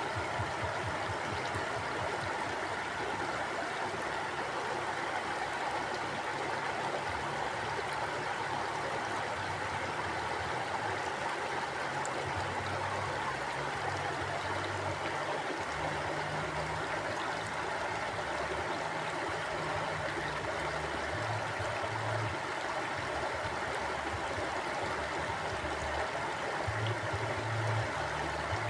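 Flowing river water, a steady rush with an uneven low rumble underneath that swells and fades.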